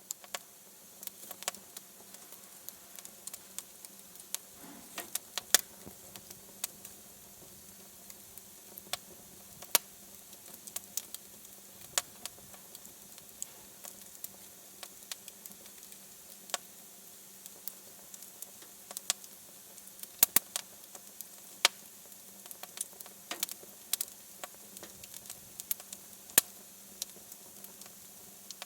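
Fire burning in a fireplace, crackling steadily with sharp pops at irregular moments, over a low hiss and a faint steady hum.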